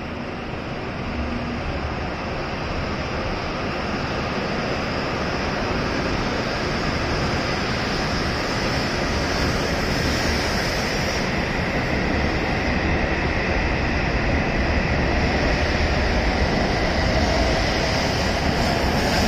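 W7 series Shinkansen train pulling out of the station and accelerating past the platform. Its running noise grows steadily louder, with a thin steady high whine over it.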